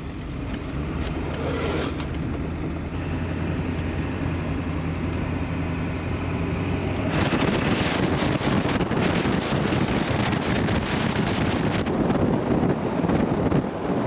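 A truck driving with its engine humming steadily. About seven seconds in, a louder rushing noise of road and wind takes over.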